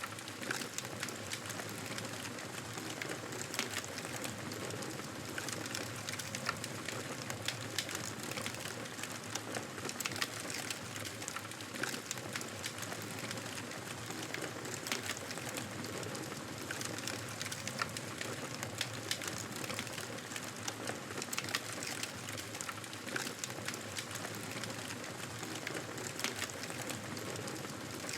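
Wood fire crackling in a fireplace: a steady soft hiss with frequent small snaps and pops scattered irregularly throughout.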